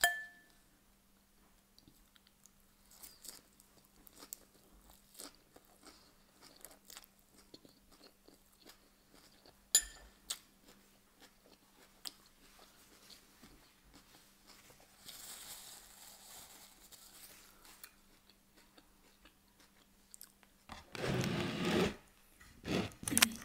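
Close, quiet chewing and crunching of salad leaves (bistro salad and rocket), with small clicks and one sharp tap about ten seconds in. Near the end comes a louder burst of handling noise as the glass bowl is lifted and the wooden board is moved. A faint steady hum runs underneath.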